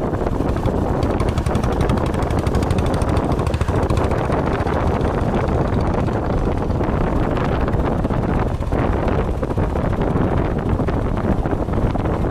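A vehicle engine running steadily with rapid pulsing, under heavy wind buffeting on the microphone.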